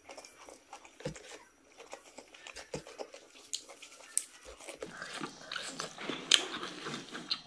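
Close-miked chewing and wet mouth sounds: a run of sharp clicks and smacks, busier in the second half, with one loud smack about six seconds in.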